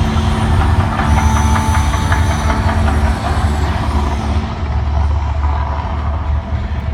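Loud, steady deep rumble of the Mirage volcano show's eruption effects, with a few faint high tones over it in the first half.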